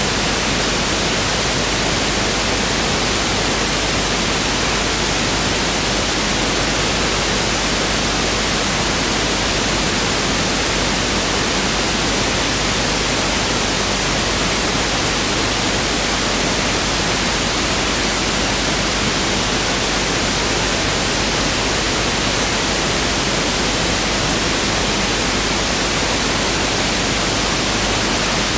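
Pink noise test signal: a steady, even hiss across all frequencies with equal energy per octave (1/f), unchanging throughout.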